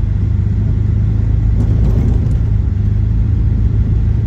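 Four-wheel-drive vehicle driving slowly down a snowy mountain road: a steady low rumble of engine and tyres, with a few faint knocks about two seconds in.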